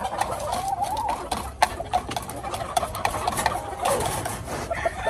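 Caged chickens clucking softly, with a run of quick sharp clicks and taps among them.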